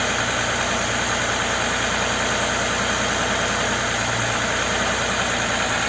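Audi Q7's 3.6 FSI VR6 engine idling steadily after a timing-chain, oil-pump and hydraulic-lifter rebuild. It runs evenly with no lifter clatter or knocking: the lifters are pumped up with oil.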